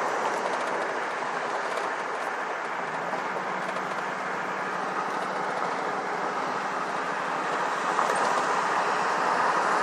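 Steady road and engine noise inside a moving car, an even rush that grows slightly louder near the end.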